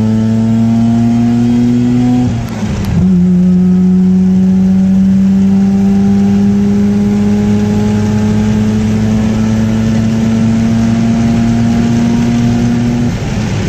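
Mazda RX-8's twin-rotor Renesis rotary engine pulling hard under acceleration, its pitch climbing. It drops at a gear change about two and a half seconds in, then climbs slowly and steadily through the next gear for about ten seconds before easing off near the end.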